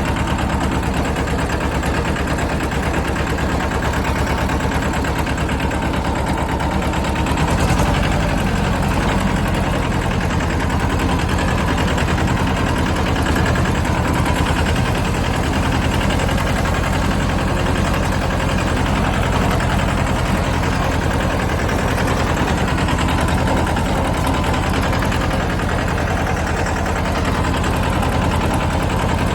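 Mahindra Jivo 305 DI tractor's diesel engine running steadily with a dense, even beat, its low note growing stronger about a quarter of the way in.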